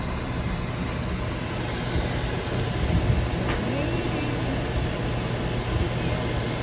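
Steady car running noise, a low engine hum under an even rushing haze, with a short click about three and a half seconds in.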